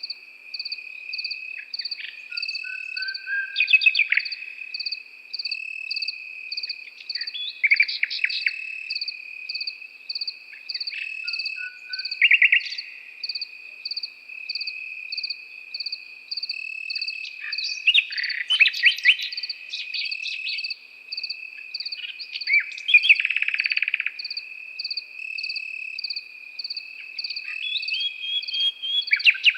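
A nightingale singing in separate bursts of rapid clicks, trills and whistles a few seconds apart, over a continuous cricket chorus: one steady high trill and a second high chirp pulsing evenly.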